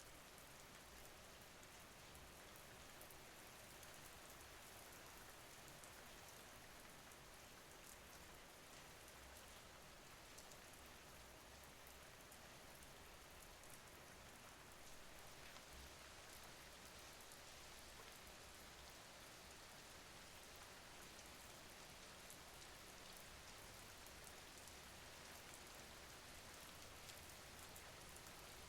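Soft, steady rain: an even hiss with faint drops pattering here and there.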